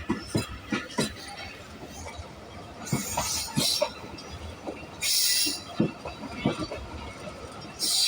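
Passenger train running along the track: irregular clacks and knocks from the wheels over the rails. Loud bursts of hiss come about three and five seconds in and again near the end.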